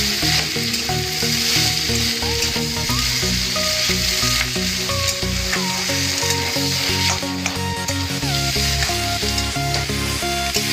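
Potato masala sizzling in a steel kadai while a metal spatula stirs and scrapes through it, with background music playing over it.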